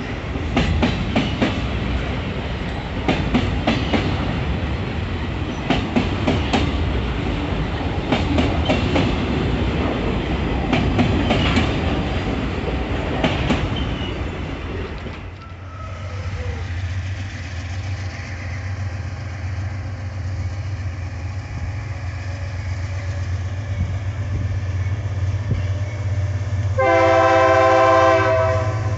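A freight train of loaded hopper wagons rolls past close by, its steel wheels clacking over rail joints. It is followed by the steady low drone of an approaching diesel locomotive, which sounds its multi-tone horn once for about a second and a half near the end.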